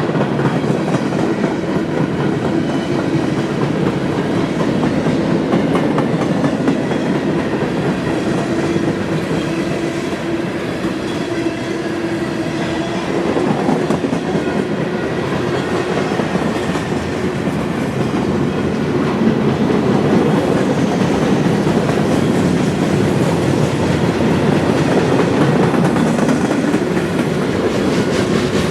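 CSX manifest freight train rolling past, its cars running steadily over the rails with a continuous rumble and rapid clicks from the wheels.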